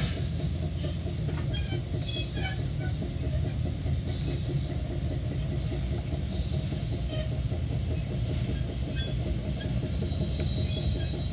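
Metra commuter train car rolling along the rails: a steady low rumble of the ride, with scattered faint high-pitched ticks.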